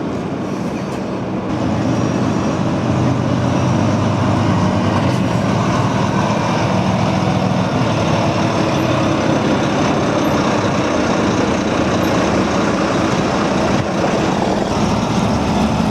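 A vehicle running steadily in motion, an engine hum with its pitch shifting a few times under constant travel noise.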